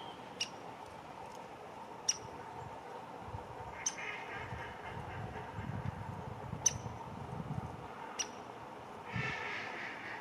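Female downy woodpecker making short, sharp ticks, about six of them at irregular gaps of one to three seconds, over a low rumble in the middle.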